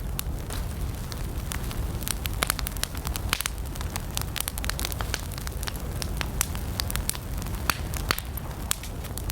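Wood campfire burning: dense, irregular crackles and pops over a steady low rumble of the flames.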